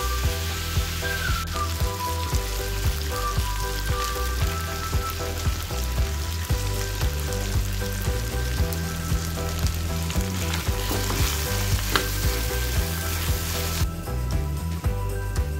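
Chicken frying and sizzling in oil in a kadai while being stirred with a spatula, under background music with a steady beat; the sizzle cuts off abruptly near the end.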